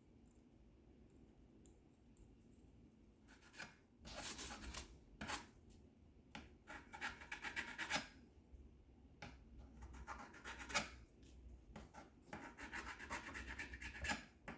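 Chisel blade scraping dried glue and black paint off the walkway supports of an HO-scale model freight car, in runs of quick scraping strokes with short pauses, starting about three seconds in.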